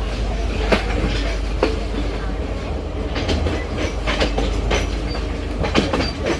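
Moving passenger train: a steady low rumble of the carriages with sharp, irregular clacks as the wheels cross rail joints.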